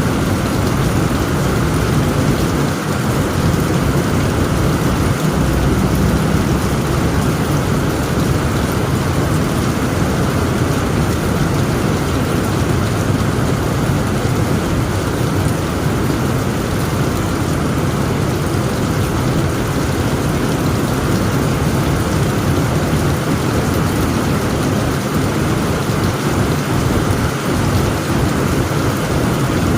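Heavy rain falling steadily on a tent roof, with a low, continuous rumble of thunder underneath.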